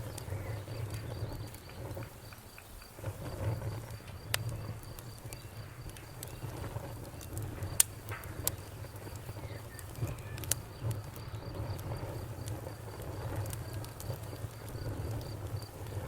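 Campfire crackling: a steady low rumble from the burning fire with a handful of sharp pops, the loudest about eight seconds in. A cricket-like insect chirps in a steady train of high, evenly spaced pulses.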